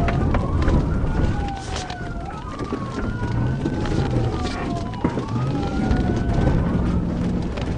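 Police car sirens wailing, two slow rising-and-falling tones running out of step so that they cross each other, over a low rumble with a few knocks.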